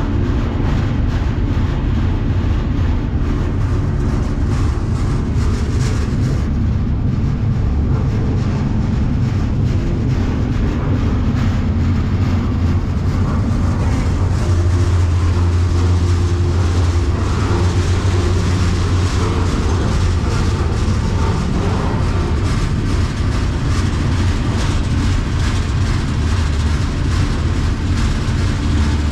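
Freight train in motion, heard from aboard: a steady, loud rumble with a low drone underneath.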